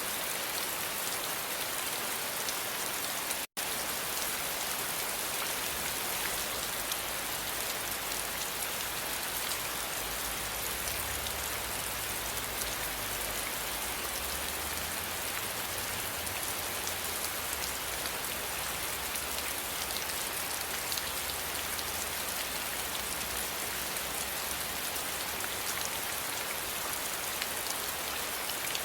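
Steady rain, a dense even hiss of falling drops, with a momentary cut to silence about three and a half seconds in.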